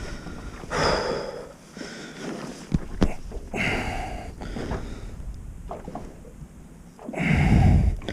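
A spearfisher breathing hard through a snorkel, three heavy breaths about three seconds apart, the last one loudest.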